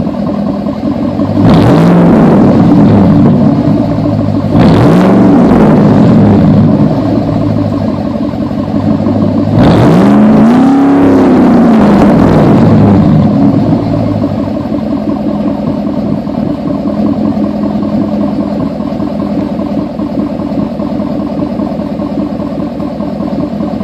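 Ford F-150's 5.4 L V8 idling through a 3-inch straight-pipe exhaust with the catalytic converters left on, revved three times. The first two revs are short and the third is the highest and longest, each falling back to idle.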